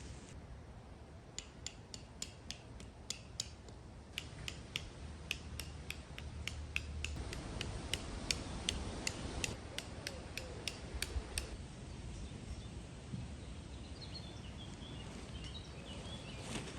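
A rapid run of sharp clicks, two or three a second, from handling gear while pitching a tent; it goes on for about ten seconds and then stops. Faint high chirps follow near the end.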